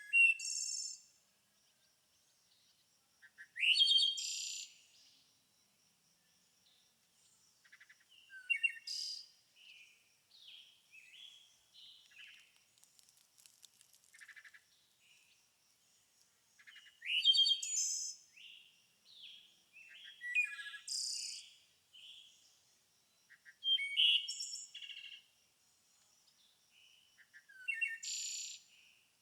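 Songbirds singing outdoors: loud, quick, varied phrases about every three to five seconds, with quieter chirps in between and a faint steady high-pitched trill underneath.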